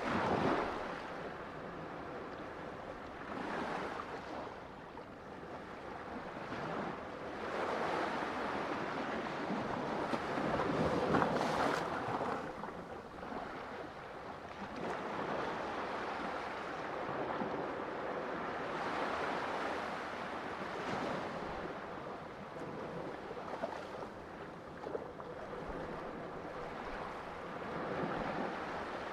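Ocean waves breaking and washing on a shore, a continuous surf noise that swells and ebbs every few seconds, with the biggest surge about eleven seconds in.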